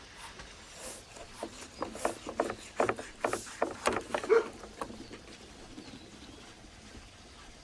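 Knife cutting through crisp-skinned roast lamb: a quick run of short crunching cuts and knocks over about four seconds, then it stops.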